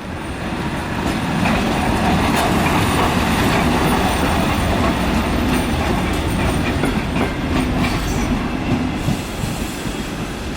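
Train running on rails, a steady rumble with scattered knocks. It grows louder about a second in and eases off near the end.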